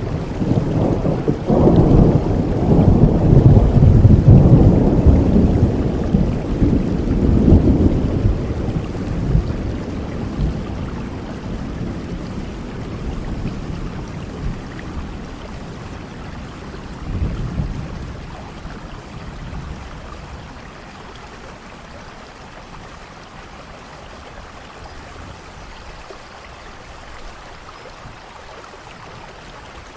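Steady rain with a long, low rumble of thunder that swells a second or two in and rolls away over about eight seconds, and a shorter, fainter rumble near the middle; after that only the rain.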